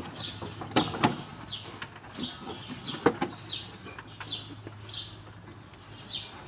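Hand-tool work on an engine bay: scattered sharp metal clicks and knocks, a few loud ones, with a short high falling chirp that repeats about once a second.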